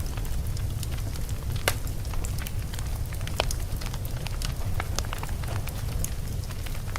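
Log fire burning in a fireplace, with a steady low rumble of the flames and irregular sharp crackles and pops from the burning logs, the loudest pop about two seconds in.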